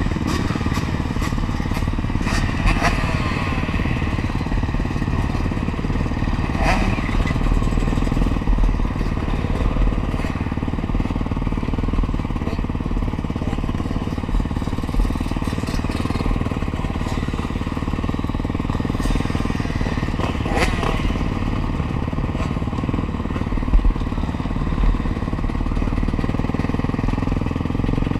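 Honda CRF450R's single-cylinder four-stroke engine running steadily, with a few sharp knocks.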